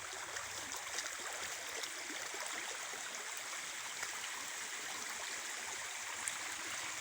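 Running water of a forest creek: a steady, even rush with a few faint ticks over it.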